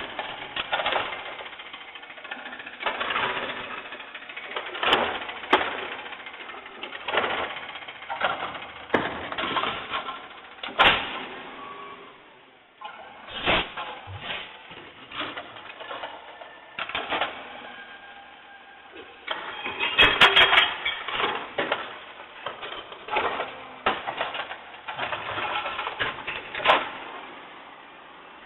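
A garbage truck at work: irregular metallic clattering and knocks, with a thick cluster of loud rattles about two thirds of the way through.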